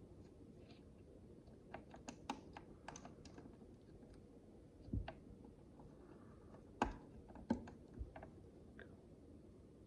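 Micro bricks being handled and pressed together: a run of small plastic clicks, with a few louder taps on the work surface about five and seven seconds in.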